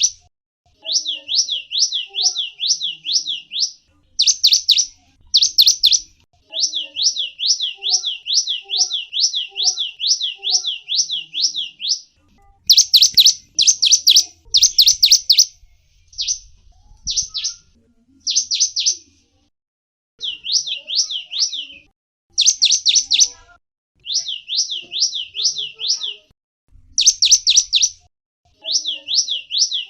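A small songbird singing in repeated phrases of high, quick notes, each note sliding downward, about three a second. Phrases last a few seconds with brief gaps between them, and a burst of louder, sharper notes comes about halfway through.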